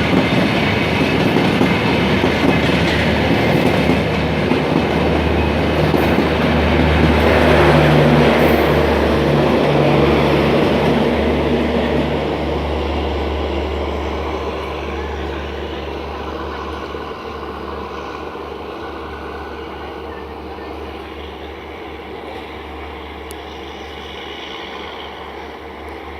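Humsafar Express train running on the rails, wheels clattering, with a steady low hum. It is loudest just before the middle, then fades steadily as the train draws away.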